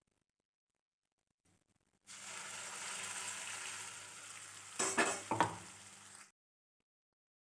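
Food frying in hot oil in a pan: a steady sizzle that starts about two seconds in and cuts off suddenly about four seconds later. Near the end a spoon stirs and knocks against the pan a few times.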